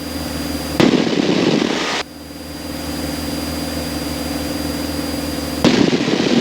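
Steady drone of a light aircraft's piston engine heard inside the cockpit during the climb. About a second in, and again near the end, a louder rushing noise cuts in and drops out abruptly.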